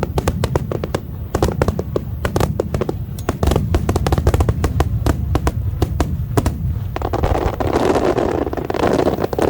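Aerial fireworks display: a rapid barrage of sharp cracks and bangs over a continuous low rumble of booming shells. In the last two seconds a dense hissing crackle swells up.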